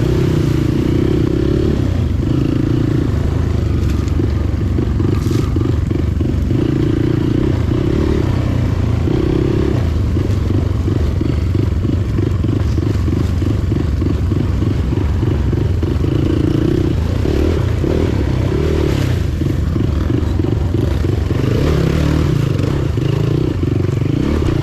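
Motorcycle engine running steadily while being ridden, with a continuous low drone and fast pulsing.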